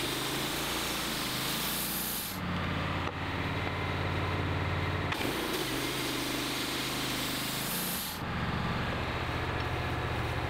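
Kohler engine of a Wood-Mizer LT15 portable band sawmill running steadily. Its tone shifts abruptly about every three seconds, with a high hiss coming and going.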